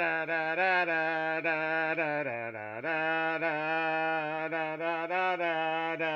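A single voice singing one long, droning held note with a nasal, buzzy tone. The pitch wavers slightly and dips briefly about two and a half seconds in, with no break.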